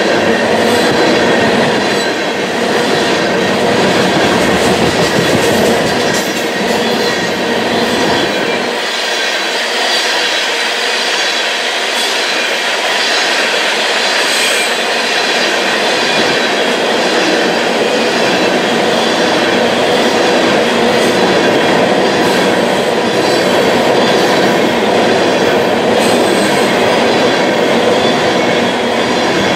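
A long train of railroad tank cars rolling past at speed: a steady, loud rumble and rattle of steel wheels on rail. A few sharp clicks and thin, steady whining tones run through it.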